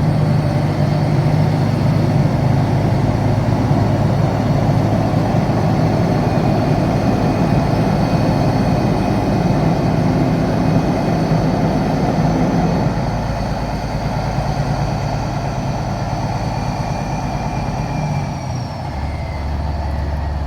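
Peterbilt semi truck's diesel engine running steadily, with a change in its note about 13 seconds in and again shortly before the end.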